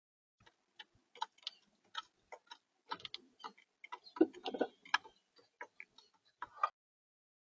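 Irregular sharp taps and clicks of an animal feeding at a bird feeder, close to the feeder camera's microphone, with a denser run of heavier knocks about four seconds in.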